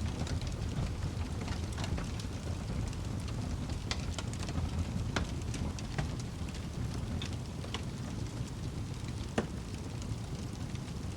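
Wood fire burning in a fireplace: a steady low rumble of the flames with irregular sharp crackles and pops from the burning logs, the loudest pop about nine seconds in.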